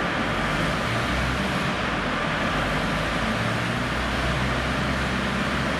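Formula Ford single-seater engine running steadily on the dyno, with a constant even noise over its low note.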